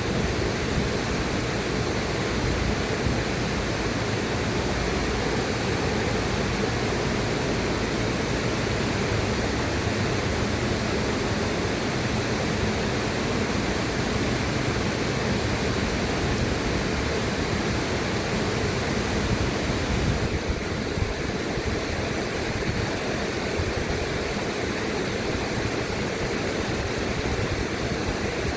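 River water rushing in a steady, continuous wash with no breaks, like white noise; the highest hiss thins slightly about twenty seconds in.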